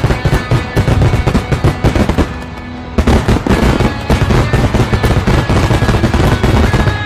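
Fireworks going off in a rapid, dense crackle of bangs, over background music. The bangs drop away briefly a little past two seconds in and resume about three seconds in.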